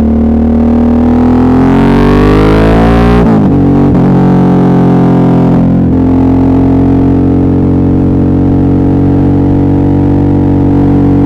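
Suzuki V-Strom 650's V-twin engine pulling under acceleration: the revs rise for about three seconds and drop sharply at an upshift. They climb again briefly, dip at a second shift around six seconds in, then hold steady at a cruising pitch.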